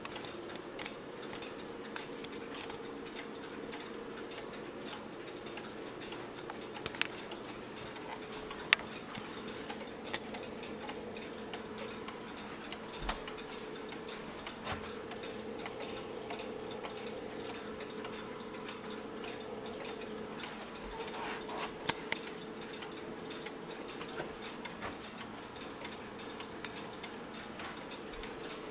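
Howard Miller 610-983 grandfather clock ticking steadily, with a few louder clicks here and there and a faint steady hum underneath.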